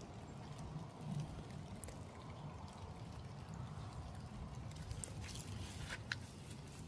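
Faint trickling and dripping water, with a few sharp ticks about five to six seconds in.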